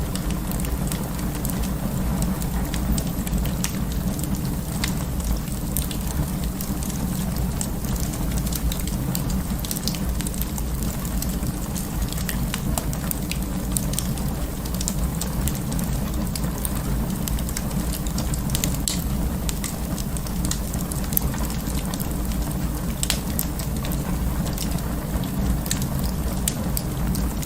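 Wood fire crackling in an open fireplace: many small, sharp pops and snaps scattered at irregular intervals over a steady low rumble of the flames.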